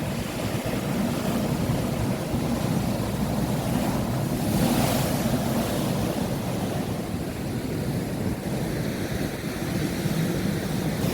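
Stormy sea surf breaking on the shore, with strong wind buffeting the microphone, and a louder rush of surf about halfway through.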